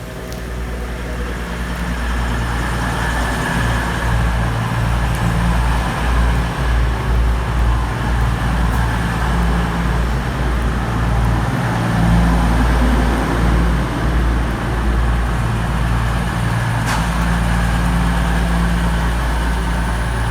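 A Class 222 Meridian diesel multiple unit's underfloor diesel engines running at the platform as the train comes in. The sound is a deep, steady engine rumble that grows louder over the first couple of seconds and then holds.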